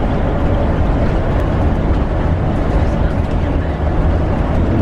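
Motorhome driving on the highway, heard from inside the cab: a steady rumble of engine and road noise.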